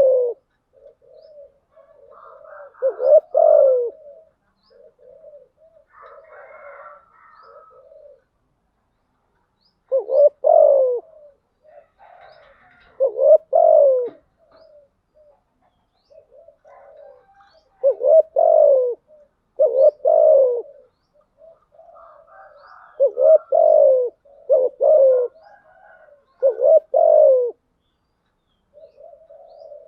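Spotted dove cooing. Loud phrases of several coos come every few seconds, with softer short coo notes in between, in the calling and cooing used as a decoy call to draw in other doves.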